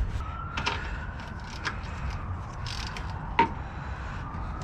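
Scattered clicks and knocks of metal tools being handled, with one sharp ringing metallic clink about three and a half seconds in.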